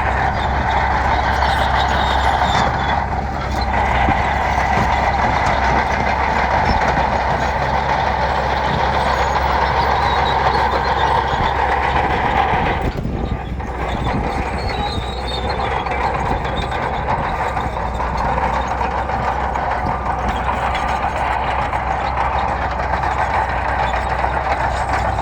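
Bulldozer's diesel engine running steadily as it works gravel, with short dips in level about three seconds in and again near thirteen seconds.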